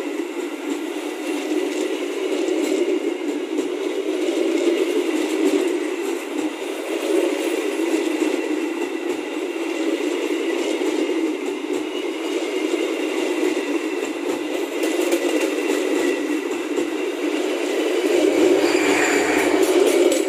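Passenger train coaches rolling past close by: a steady rumble and rattle of wheels on the rails, with a thin high tone running through it, getting a little louder near the end.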